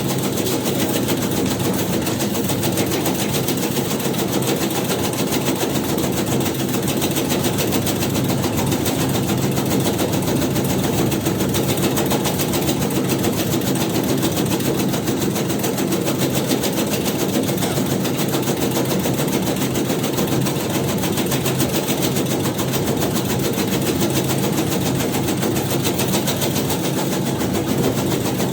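Tobacco-shredding machine running steadily, a fast, even mechanical clatter that goes on without a break.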